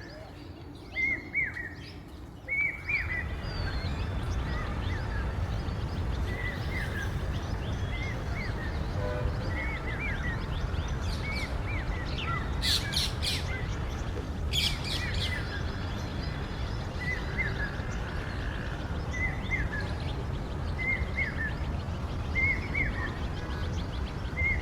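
Common hawk-cuckoo (brain-fever bird) calling over and over: short, high, rising notes in groups of two or three, repeated every second or two. A steady low rumble sits under the calls from a few seconds in, and there are a couple of brief sharp noises near the middle.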